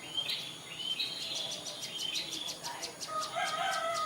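Prinias (prenjak) calling: high chirps and a fast run of sharp ticks, about six a second. A rooster crows from about three seconds in.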